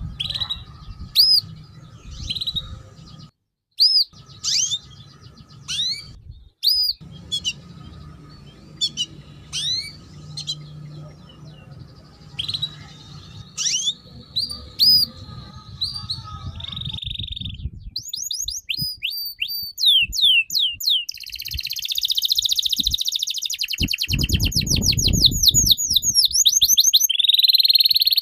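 A songbird singing loudly and without pause: sharp, separate chirps at first, then about 18 seconds in a fast, rapidly repeated run of notes that grows louder to the end. The sound cuts out briefly twice early on.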